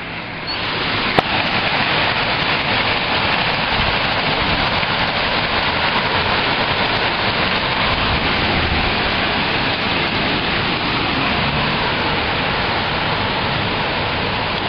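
Heavy downpour: a steady, dense hiss of rain falling, with one sharp tap about a second in.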